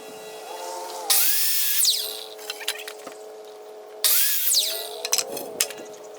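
Power saw cutting through 2x4 lumber, twice: two sharp-edged bursts of cutting noise about a second long each, roughly three seconds apart, over the steady running of the tool.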